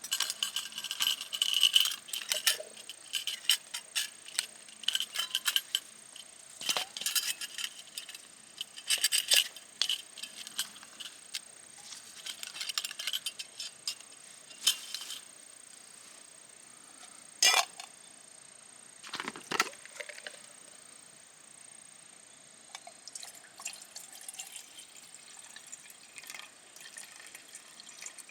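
Metal camping gear being handled: repeated light clinks and clatters with a short metallic ring, busiest in the first half and sparser later.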